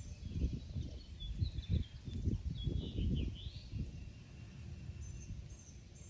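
Songbirds calling: a short warbling phrase a second and a half in, then a run of high repeated chirps near the end, over a low, uneven rumble on the microphone.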